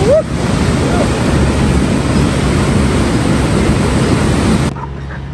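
Steady loud rushing noise, such as fast-flowing water or wind on the microphone, cutting off suddenly near the end.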